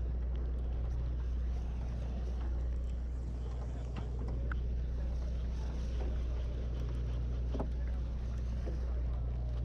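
Sportfishing boat's engine running with a steady low drone, with a few faint knocks about four and seven and a half seconds in.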